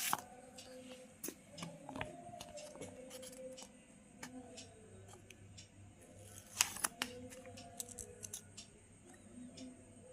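Scissors cutting paper: a run of scattered snips and clicks, with the loudest couple of cuts about six and a half seconds in.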